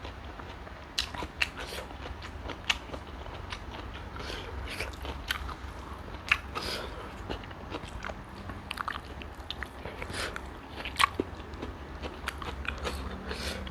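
A person eating close to the microphone: chewing and biting, with irregular sharp crunches and clicks. The loudest come at about a second in, near three seconds, past six seconds and around eleven seconds. A steady low hum runs underneath.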